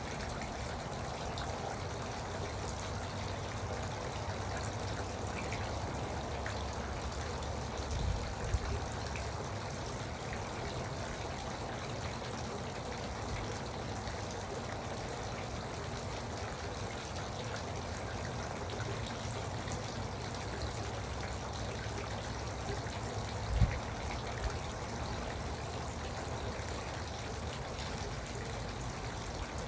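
Garden water fountain running, water trickling and splashing steadily. Two brief low thumps stand out, one about eight seconds in and a sharper one near two-thirds of the way through.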